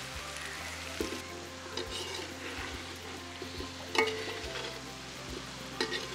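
Spiny gourds sizzling as they fry in oil in an aluminium wok. A metal spatula stirs them, scraping and knocking against the pan now and then, loudest about four seconds in.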